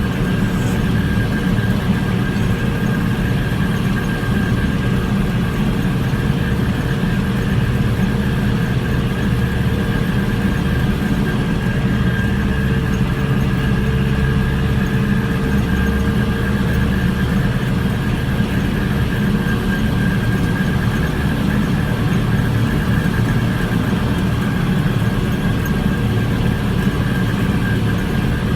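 Tractor engine running steadily under way, with a steady high-pitched whine over the low drone.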